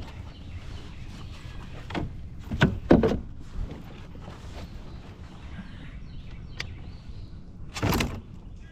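Several hollow knocks and thumps from gear being handled against a plastic fishing kayak's hull: a loud cluster about three seconds in and another strong knock near the end, over a low steady rumble.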